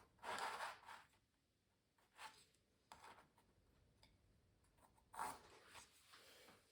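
Faint strokes of a drawing or painting tool across a canvas: a few separate scratchy passes, the longest near the start and shorter ones after.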